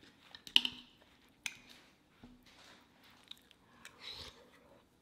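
Close-miked eating sounds: soft chewing and small crackles of a deep-fried taco, with two sharp clicks about half a second and a second and a half in.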